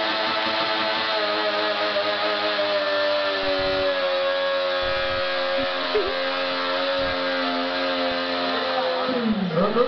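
Triumph 675's three-cylinder engine held at high revs during a burnout, the rear tyre spinning on the spot. The pitch sags slightly partway through, then falls sharply near the end as the throttle is closed.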